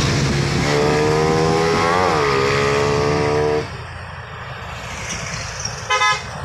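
Diesel engine of an overloaded sugarcane truck labouring at full throttle with a steady drone, its pitch wavering once. It drops away abruptly a little past halfway. A short horn beep follows near the end.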